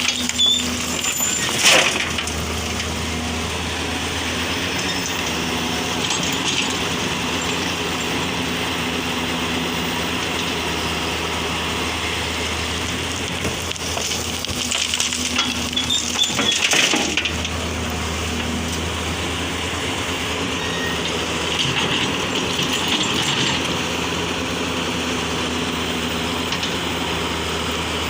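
Heavy diesel machinery running steadily while soil is loaded into a dump truck, with a clattering crunch about two seconds in and another at around seventeen seconds as a load of soil drops.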